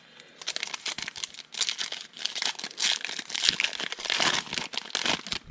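Plastic wrapper of a trading-card pack crinkling and tearing as it is handled and opened, a continuous rustle that stops just before the end.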